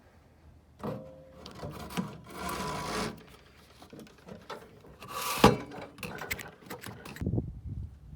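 A new tractor air filter element rubbing and scraping as it is handled and worked into the air cleaner housing. There is one sharp knock about five seconds in, followed by a few clicks.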